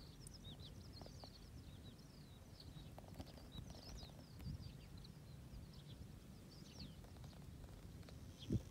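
Faint birds chirping, many short high twittering calls one after another, over a low background rumble.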